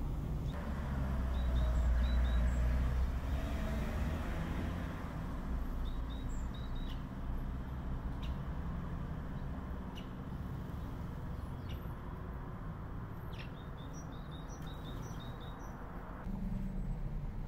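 Small birds chirping in short, high notes, with a quick run of chirps near the end, over a steady low rumble of background noise that is loudest in the first few seconds. A few sharp clicks fall in between.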